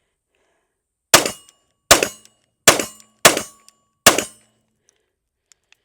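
Taurus G3X 9mm pistol fired five times in quick succession, a little under a second apart, each shot followed by a brief ring.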